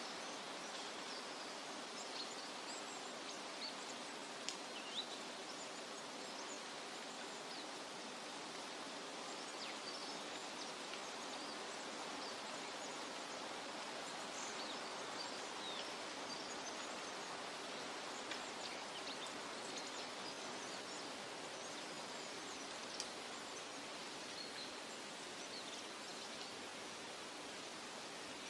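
Forest nature ambience: a steady, even rushing hiss, like wind in leaves or falling water, with faint, scattered high bird chirps throughout.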